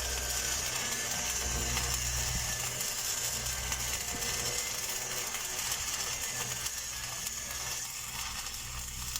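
Stick (SMAW) welding arc burning steadily on a pipe during a downhill pass: a continuous crackling hiss, with a low hum underneath that fades in and out.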